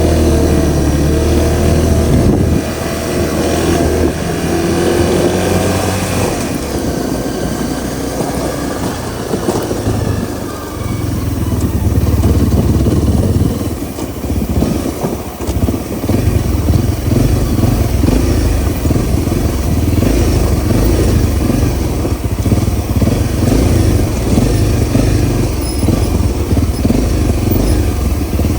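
Honda CRF250L's single-cylinder four-stroke engine running while the bike is ridden, its pitch climbing over the first few seconds as it revs, then settling into a rougher, lower steady run with a couple of brief drops in level.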